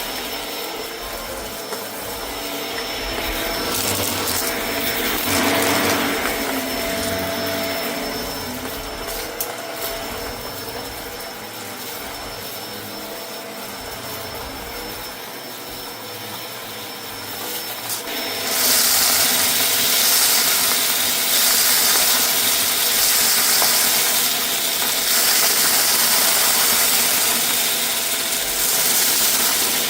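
Vacuum cleaner running with a steady motor whine and rushing air while it picks up debris from a rug. About eighteen seconds in it turns louder and hissier.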